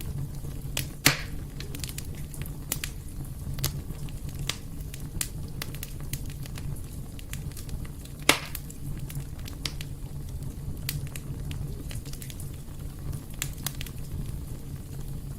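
Fire burning in a fireplace, crackling steadily over a low rumble, with two sharper pops, one about a second in and one about eight seconds in.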